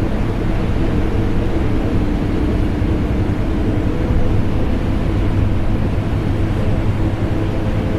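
Vacuum cleaner running steadily together with an air conditioner: a continuous, even drone with a deep rumble and a few steady hum tones over it.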